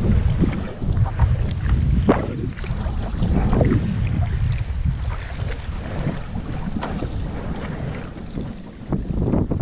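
Wind buffeting the camera microphone in a steady low rumble while kayaking, with water splashing at intervals from paddle strokes and small waves against the hull.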